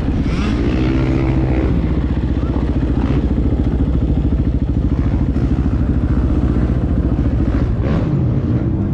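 Husqvarna FE 501 single-cylinder four-stroke dirt bike engine running under throttle while being ridden, its pitch rising over the first second or so and then holding steady.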